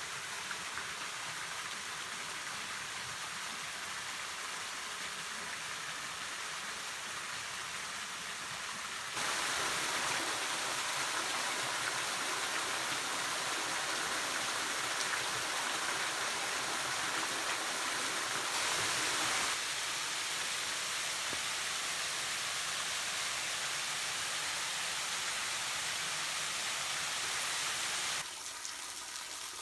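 Small waterfalls on a creek, falling water giving a steady, even rush. The rush steps abruptly louder about nine seconds in and drops back again near the end.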